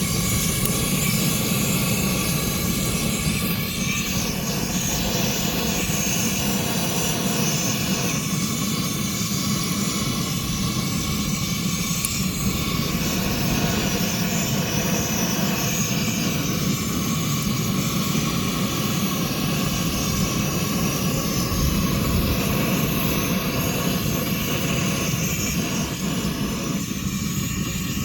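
Gas torch running with a steady roar while its flame is held down into the charcoal in a kamado grill to light it.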